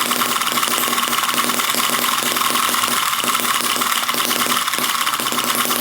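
Eachine EM2 miniature four-stroke gasoline engine running at a steady speed: a fast, even, high-pitched firing.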